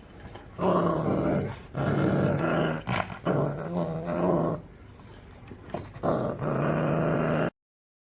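A dog growling in about four long, loud bouts, the last cut off abruptly near the end.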